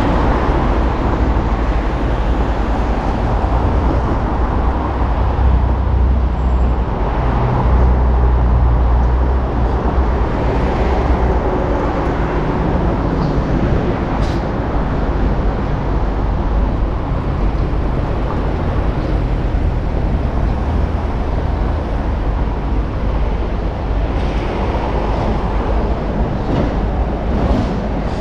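Road traffic passing on a busy city street, a steady noise with a deep engine rumble that is loudest about six to nine seconds in.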